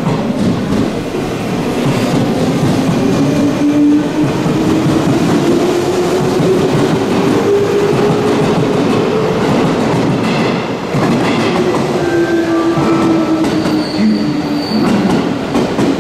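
Electric commuter train running past close to the platform, its wheels clattering over the rail joints under a motor hum that rises in pitch and then falls. A brief high squeal comes near the end.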